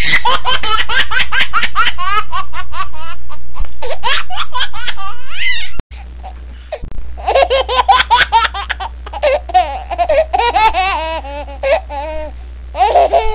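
Laughter sound effects: a loud, rapid burst-after-burst laugh, cut off suddenly about six seconds in, followed by a second, quieter, choppier laugh.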